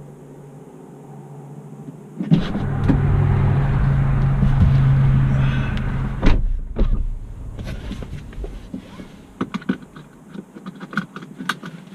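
Vehicle lift's motor running for about four seconds as the car is let down, then two knocks and a few light clicks.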